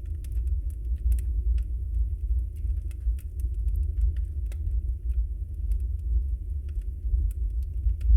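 Log fire burning in a fireplace: a steady low rumble of the flames with many small, sharp crackles and pops scattered irregularly throughout.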